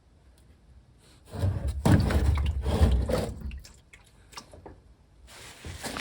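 Motor oil pouring and splashing in a loud gush of about two seconds, starting a little over a second in, with small clicks and knocks around it.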